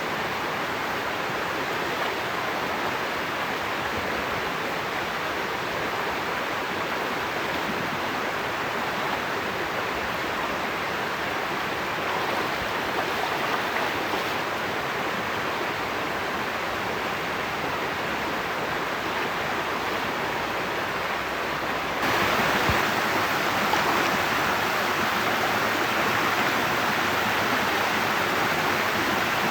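Steady rushing noise of running or spraying water. About two-thirds of the way through it steps up suddenly, louder and hissier.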